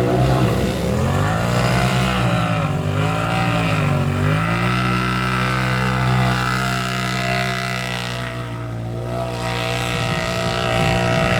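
A stock UTV's engine running hard under throttle; its pitch dips and climbs back twice about two to four seconds in, then holds fairly steady.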